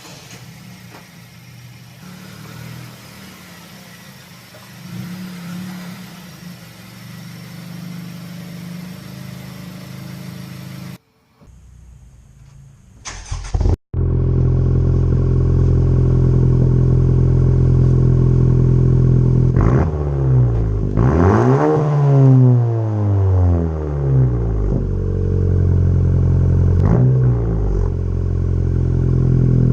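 Straight-piped 2017 Honda Civic Si turbocharged four-cylinder, muffler and resonator deleted, idling loudly from about halfway in and revved three times, the middle rev rising and falling over a couple of seconds. Before that, a quieter low hum.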